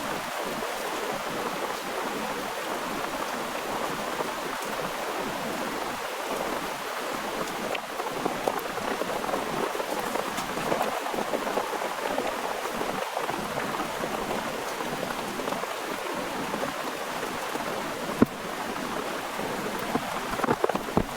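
Rain falling steadily, with scattered drop ticks and one sharp tap near the end.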